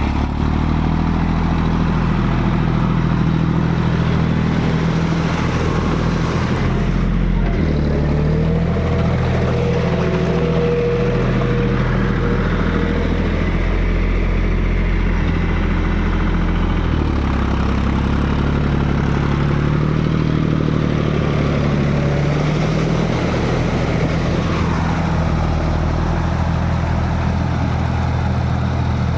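Tractor diesel engine running hard, its revs shifting up and down several times, with a faint whine for a few seconds near the start.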